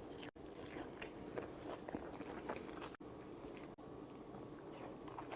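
Close-miked chewing and biting of food, faint, with many small wet mouth clicks.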